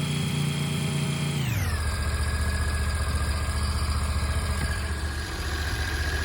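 Small two-stroke chainsaw running at high revs, then let off the throttle about a second and a half in, its pitch falling quickly to a steady idle.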